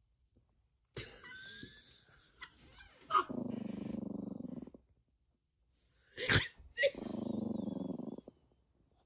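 Dog growling low twice, each growl starting with a sharp huff and lasting about a second and a half, with fainter whining sounds before the first.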